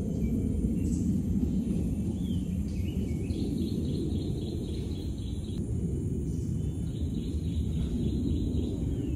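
Birds chirping, one repeating a short high note about four times a second in two runs, the second starting about seven seconds in, over a steady low rumble.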